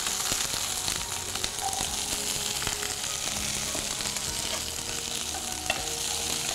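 Small onions (shallots) sizzling in hot gingelly oil with mustard seeds, fenugreek and curry leaves in a kadai. They are stirred, with a few clicks of the spoon against the pan, one plain about three-quarters of the way through.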